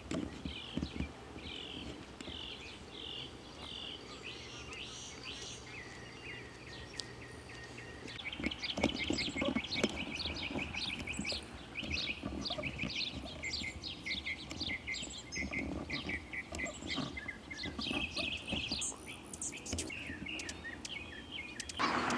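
Birds chirping outdoors in a run of short repeated notes, growing into a denser chorus about eight seconds in.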